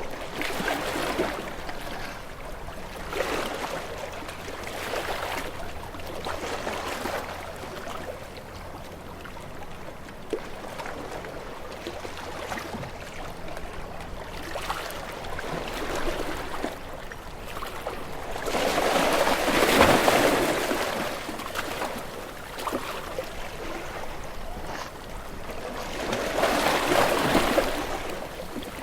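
Sea waves breaking and washing over shore rocks, the noise swelling and falling in surges every few seconds. The two biggest surges come about two-thirds of the way through and near the end.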